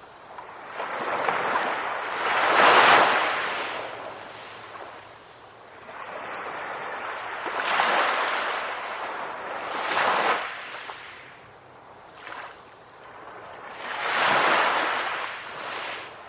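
Ocean waves breaking and washing up a shore in swells every few seconds, the loudest about three seconds in.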